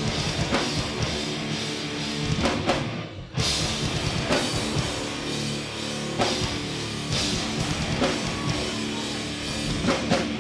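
A live hardcore band plays an instrumental stretch with distorted guitars, bass and pounding drums, and no vocals. The band breaks off for a moment about three seconds in, then comes straight back in.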